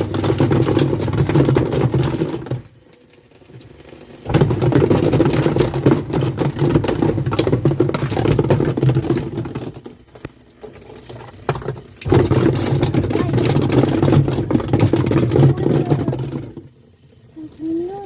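Small electric motor of a toy washing machine running with a steady whir, cutting out for a second or two three times; it starts again after the first two stops and stays off after the last, near the end.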